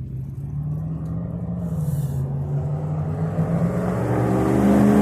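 A motor vehicle engine running, with a low hum that slowly gets louder and rises slightly in pitch as it approaches, over a haze of wind noise.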